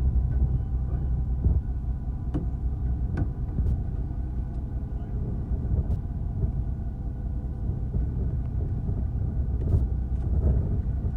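Fishing boat's engine running steadily with a low rumble, with a few light clicks and knocks over it.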